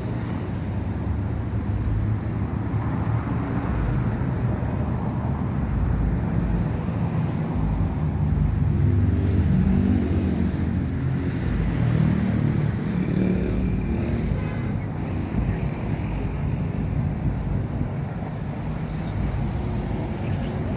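Car engine and road noise: a steady low rumble that swells a little in the middle, with a faint changing pitch as the engine works.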